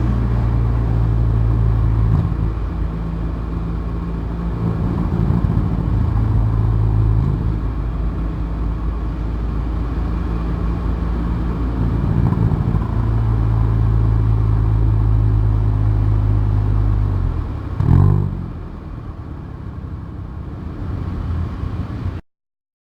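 Hyundai i30N Performance's turbocharged four-cylinder engine and exhaust, heard close from the rear bumper, running at low, steady revs. About three-quarters of the way through there is a brief, loud rise in revs, after which it runs quieter until the sound cuts off abruptly.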